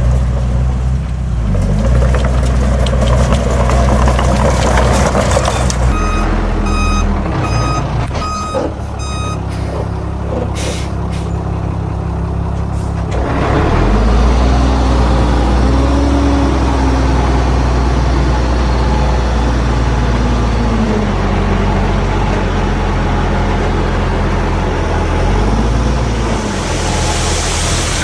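Heavy diesel earthmoving machinery, a dump truck and bulldozer, running under load, with engine speed changing after about the middle. A reversing alarm beeps in a short run of evenly spaced beeps from about six to nine seconds in, as a dump truck backs up to unload.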